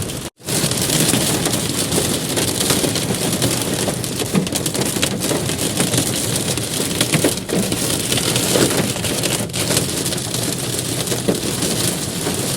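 Hailstones pelting down on hard surfaces: a dense, steady clatter of many small impacts over a rushing hiss. The sound drops out for a split second just after the start.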